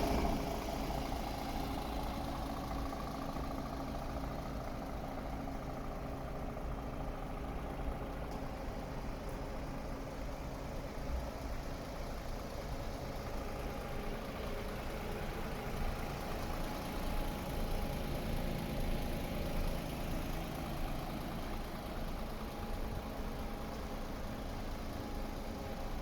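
DAF XF 460 truck's PACCAR MX-13 six-cylinder diesel engine idling steadily.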